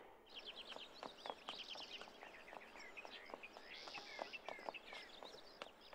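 Small songbirds chirping faintly, a busy scatter of short, quick chirps that drop in pitch.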